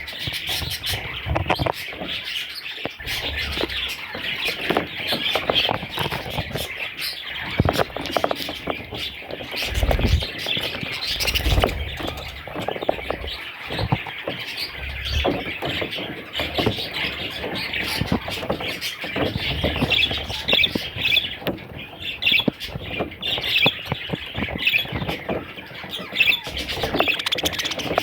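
A group of budgerigars chattering continuously, a dense mix of chirps, warbles and short squawks, with a couple of low bumps about a third of the way through.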